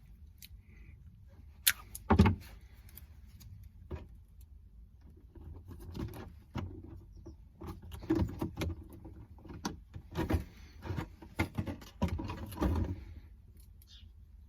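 Insulation tape being handled and wrapped around cardboard: a run of irregular crackles, rustles and clicks, with one sharp bang about two seconds in and a busy stretch from about six to thirteen seconds.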